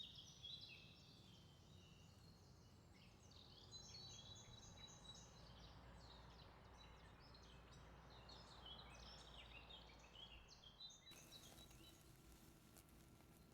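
Faint birdsong: several small birds singing in quick, short, high notes, over a low hum.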